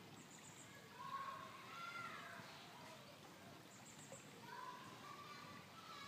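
Near silence, with faint high-pitched bird chirps twice and a few fainter tonal calls underneath.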